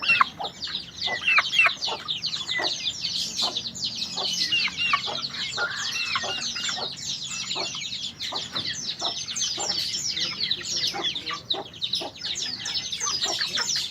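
A white-eye (pleci) singing a long, fast twittering song: a continuous stream of quick, high chirps and trills with no pauses.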